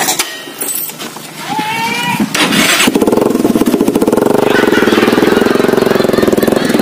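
Motorcycle engine starting about three seconds in, after a short burst of noise, then running with a fast, even pulsing beat.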